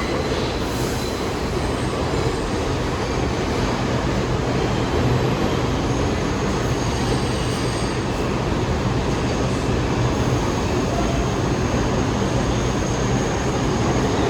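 New York City subway train running through the station: a steady, loud rumble of wheels and motors, with a thin high tone joining about halfway through.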